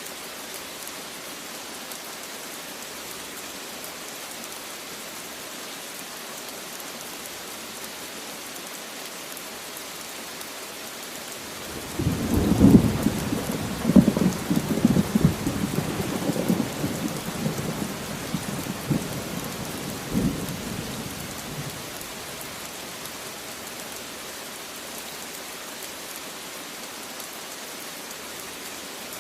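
Steady rain falling, with a clap of thunder about twelve seconds in that rolls and rumbles for around ten seconds before fading back under the rain.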